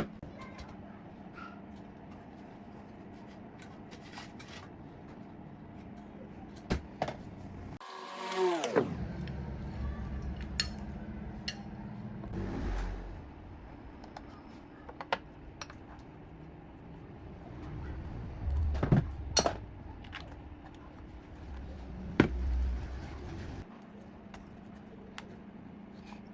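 Workshop hand work on metal parts: scattered sharp clicks and knocks and a few low thuds over a steady low hum, with one quick sweep falling in pitch about eight seconds in.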